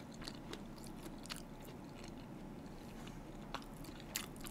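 A person chewing a toast sandwich with the mouth closed: faint, irregular wet clicks and smacks.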